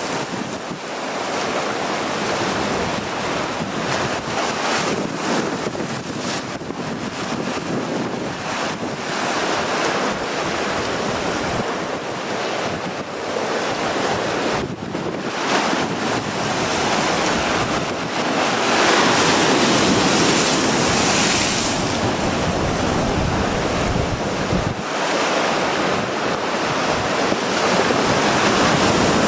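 Strong wind buffeting the microphone over surf breaking on a rocky shore, in surges that peak loudest about two-thirds of the way through.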